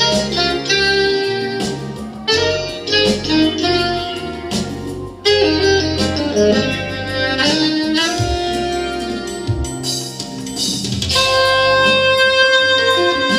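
Live jazz instrumental, a melodic lead instrument over piano chords and a bass line, with a long held note near the end.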